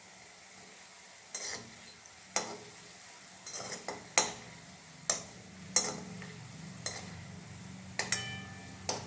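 A metal spoon knocking and scraping against a frying pan about once a second while turning langcha frying in oil, over a faint sizzle. One knock near the end rings briefly.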